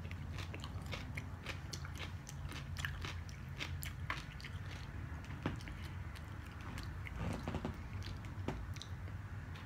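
Close-miked eating: chewing and biting on food, with many small sharp mouth clicks and some crunching, over a low steady hum.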